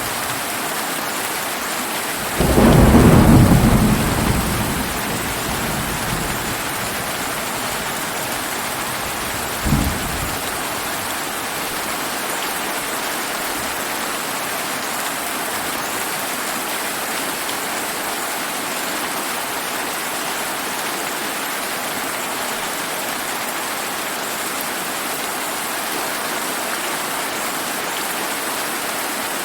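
Steady summer rain falling, with a thunder rumble breaking in about two seconds in and fading over a few seconds, then a short second thunder clap about ten seconds in.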